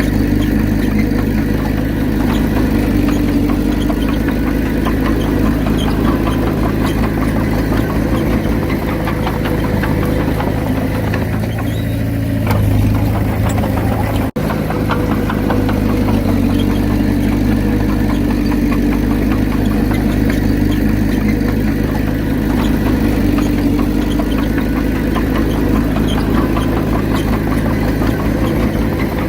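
Komatsu D31P bulldozer's diesel engine running steadily. The low drone shifts briefly before a momentary cut in the sound about halfway through.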